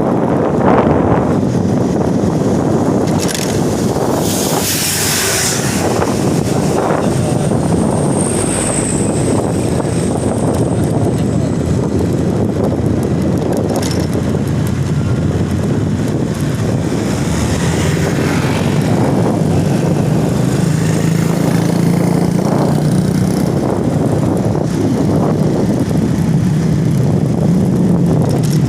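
Road traffic of heavy vehicles going past, with engines running and tyre noise. There is a short hiss about five seconds in, and a low engine drone comes in from about two-thirds of the way through.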